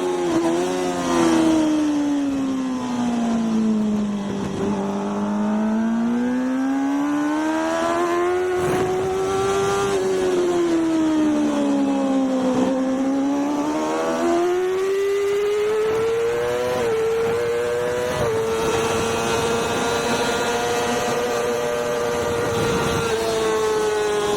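Racing motorcycle engine heard onboard at speed on a race track. Its pitch falls twice as the bike slows for corners and climbs again as it accelerates out, then holds high and steady near the end, over steady wind and road noise.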